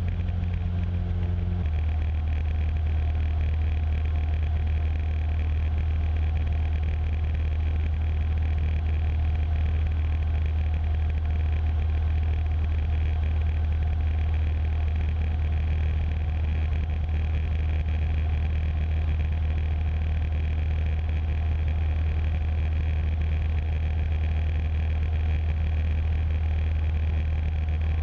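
Cessna 150's four-cylinder Continental O-200 engine running steadily in flight, a low, even drone heard through the aircraft intercom audio. Its tone shifts slightly about a second and a half in, then holds steady.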